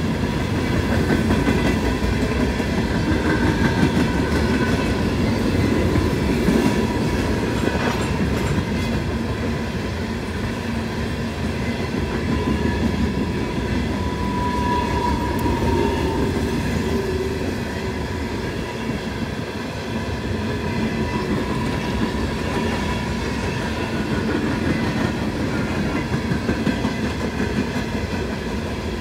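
Norfolk Southern freight train's hopper cars rolling past: a steady rumble of steel wheels on the rails. A thin steady ringing tone sits over it and swells briefly about halfway.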